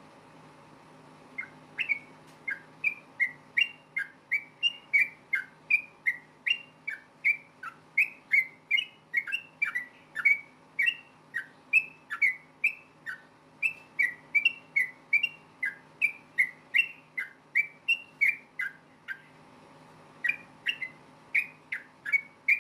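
Yellow-vented bulbul (trucukan) singing a long rapid run of short, clear whistled notes, about two to three a second, each note sliding sharply in pitch; the run breaks off briefly near the end and then starts again.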